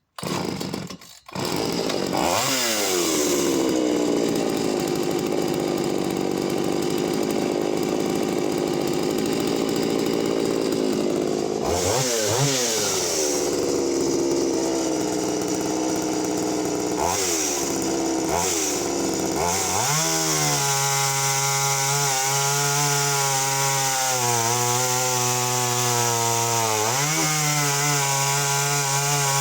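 Two-stroke chainsaw started with a short pull, then run at high revs with a few brief throttle drops. About twenty seconds in it settles to a lower, steadier pitch under load as it cuts through wood.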